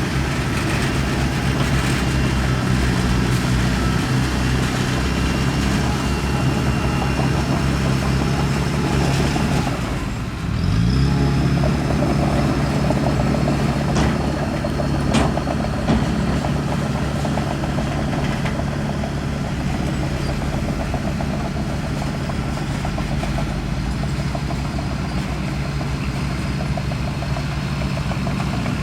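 Heavy diesel engine of earthmoving machinery running steadily, dipping briefly about ten seconds in and then revving back up. Two sharp clanks follow a few seconds later.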